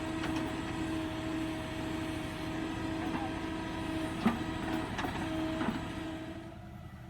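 Tractor diesel engine running steadily under work, with a few sharp metallic clanks, the loudest about four seconds in. The engine sound fades somewhat near the end.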